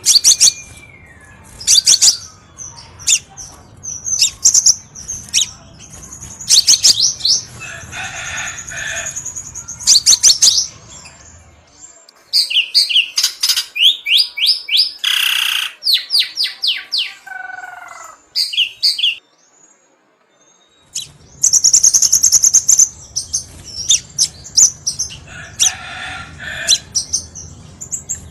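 Crimson sunbird (kolibri sepah raja) song: rapid high-pitched chirps and fast twittering trills in dense clusters, with a short break about two-thirds of the way through.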